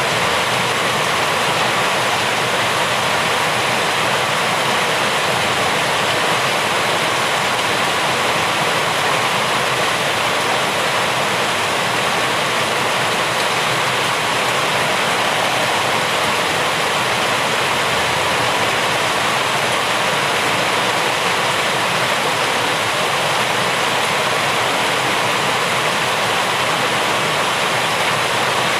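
Rain falling steadily: a dense, even hiss with no separate drops standing out.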